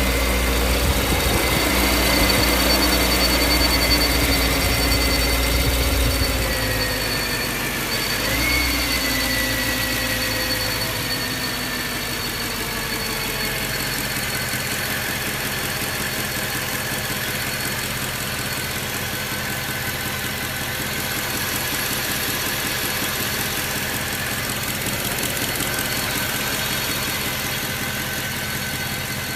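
BMW M3 E92's 4.0-litre V8 idling steadily. The idle eases down in pitch and gets quieter about eight seconds in, then holds a lower, even idle.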